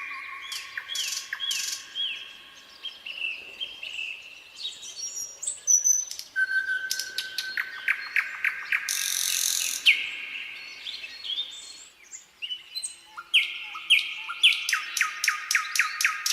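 Nightingale singing: varied phrases of clear whistled notes and fast trills of repeated sharp notes, with a short hissing rasp about nine seconds in.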